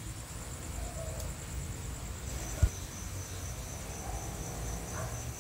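Crickets trilling steadily in high, thin tones, with a second trill joining about two seconds in, over a low background rumble; a single short thump a little past halfway.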